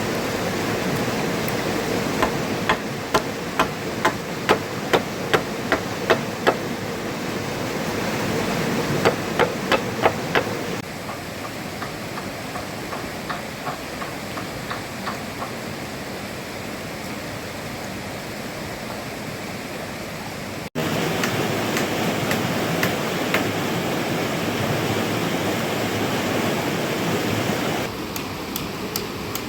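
Steady rushing of heavy rain and running water, with a run of sharp knocks, about two a second, in the first third, as from a hand tool striking. The sound changes abruptly a few times.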